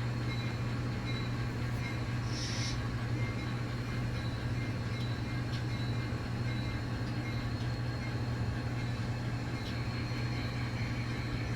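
N scale model locomotive running slowly, pulling a string of cars to test a fresh coupling: a steady low hum, with one brief high squeak about two and a half seconds in.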